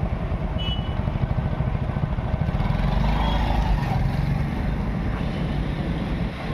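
Motor vehicle engines running in road traffic, a steady low rumble.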